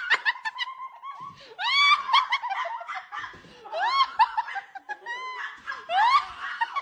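High-pitched laughter in about five short bouts of quick, shrill rising and falling notes, with brief pauses between them.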